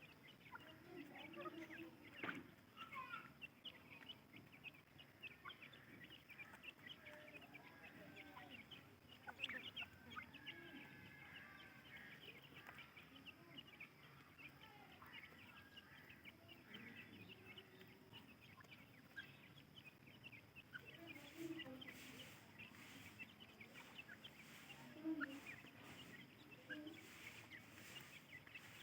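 Francolin (teetar) chicks cheeping faintly: many short, high peeps overlapping throughout, with a few lower calls now and then.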